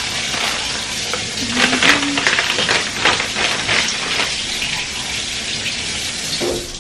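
Kitchen tap running as bell peppers and scallions are rinsed under it, a steady hiss of water with irregular splashing, cut off at the very end when the tap is turned off.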